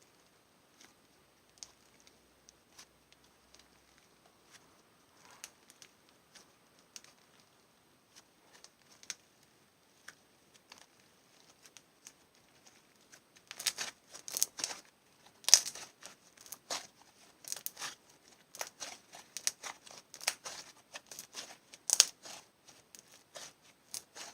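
Clear slime full of trapped air bubbles being squeezed and poked by hand, giving small sticky clicks and pops. The clicks are sparse at first, then from about halfway they turn into a dense, louder crackling.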